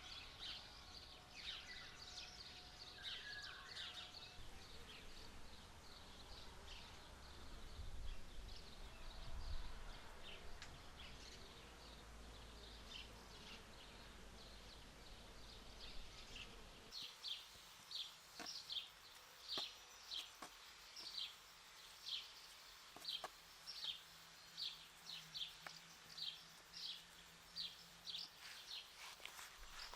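Small birds chirping, short high chirps repeated over and over, about two a second in the second half. A low steady background hum underlies the first half and drops away suddenly about 17 seconds in.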